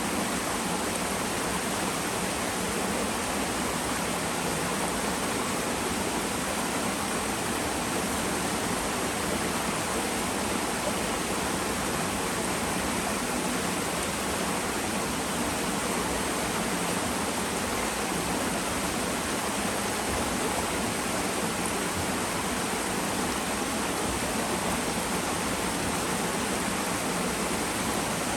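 Small twin waterfall pouring into a mountain stream, a steady rushing of falling water.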